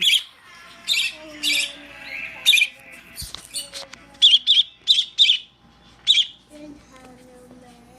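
Pet bird squawking: about nine short, harsh, high calls, four of them in a quick run about four seconds in.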